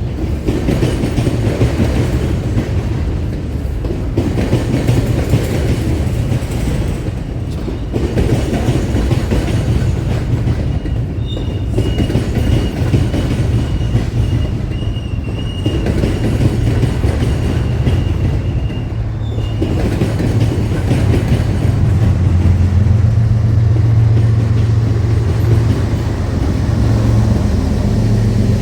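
A train rolling past, its cars clattering over the rail joints, with a steady high wheel squeal for several seconds midway. A deeper engine drone builds near the end.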